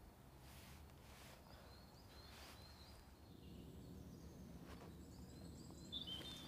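Quiet forest ambience: faint bird chirps now and then over a low steady background hum, with a slightly louder chirp near the end.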